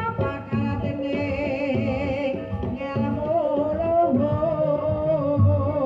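Live Javanese kuda kepang accompaniment music: a wavering melody line held over hand-drum strokes, with singing.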